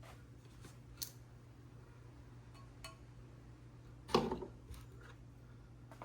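A sharp click about a second in, then a short, louder clatter of small hard objects being handled near four seconds, with a few faint ticks, over a steady low hum.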